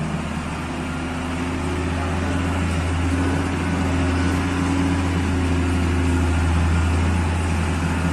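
Concrete mixer truck's diesel engine running steadily with a deep, even drone, growing a little louder through the middle.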